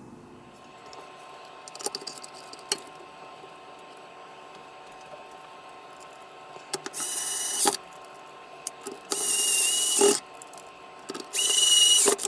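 A small handheld electric power tool's motor whirring in three short bursts of about a second each, with a few light clicks and taps before them.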